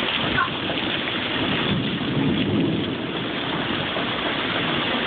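Heavy rain pouring down in a storm with strong gusting wind, the rush swelling louder with a low rumble around two seconds in.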